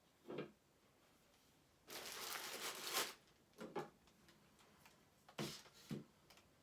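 Handling noise as statue pieces are unpacked: about a second of rustling packaging two seconds in, with a few light knocks and taps before and after it.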